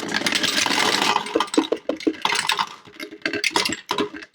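A jar full of dice rattling and clattering. A dense rattle gives way about a second and a half in to a run of separate sharp clicks, then clattering again near the end.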